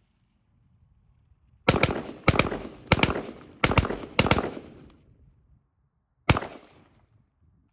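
Six gunshots: a string of five evenly spaced about half a second apart, then a single shot about two seconds later, each followed by a short fading echo.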